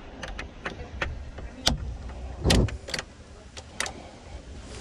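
Scattered sharp clicks and taps of hands and tools working plastic ignition parts in a Jeep Wrangler steering column, with one louder thump about two and a half seconds in, over a steady low rumble.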